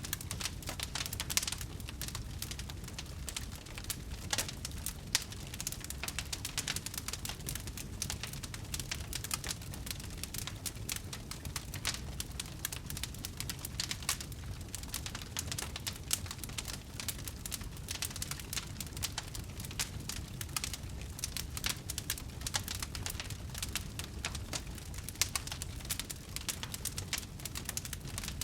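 Wood fire crackling: a steady stream of small snaps and ticks over a low rumble, with a louder pop now and then.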